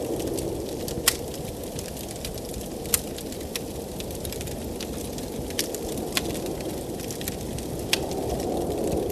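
Wood fire crackling in a fireplace, with a handful of sharp pops scattered through, the loudest about a second in and about three seconds in. Under it a steady blizzard wind blows, growing louder near the end.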